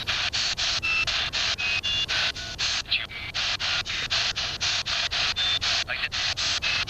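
Ghost box (spirit box) radio scanning rapidly through stations: loud static chopped into short bursts about four a second, with brief snatches of tones between the hiss.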